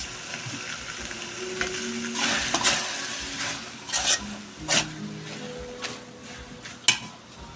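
Chicken asado filling being stirred in a sizzling pan, a utensil scraping and knocking against the pan several times, with the sharpest clack near the end.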